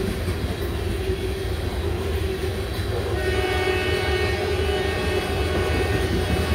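Covered hopper cars of a freight train rolling past with a steady low rumble. About three seconds in, a locomotive horn starts and holds.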